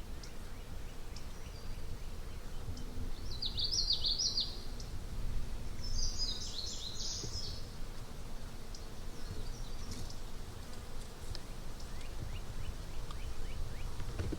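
A songbird singing two short, rapid, high-pitched phrases, about three and a half and six seconds in, over a steady low wind rumble on the microphone.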